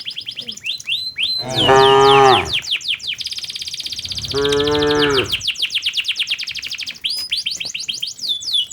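Cattle mooing twice, each moo about a second long, one about two seconds in and one about five seconds in. Fast, repeated high chirps run behind the moos throughout.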